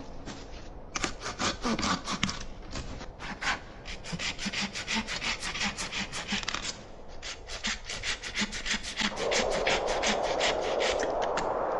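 Hand saw cutting wood in quick, repeated back-and-forth strokes. About nine seconds in, a steady rushing noise joins and becomes the loudest sound.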